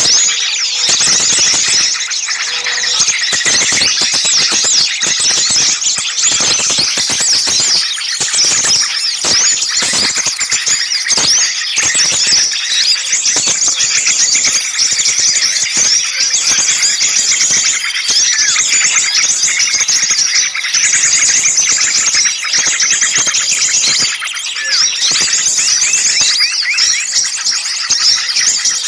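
Dense, loud chorus of many small songbirds chirping and scolding at once: rapid high chirps and short whistles overlapping without a break. It is a bird-lure (pikat) recording of agitated small birds, used to draw other birds in.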